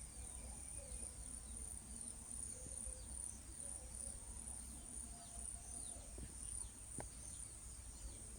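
Faint outdoor ambience: insects keep up a steady high-pitched drone while birds give many short, falling chirps over a low rumble.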